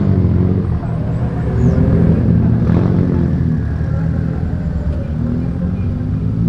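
Car engines running at low speed as cars pull out, with a deep rumble whose pitch wavers and then rises near the end as one car accelerates.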